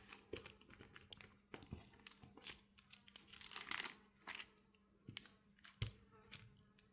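Faint, scattered taps and crinkling rustle of hand crafting: rubber stamps being inked on an ink pad and pressed onto strips of tape.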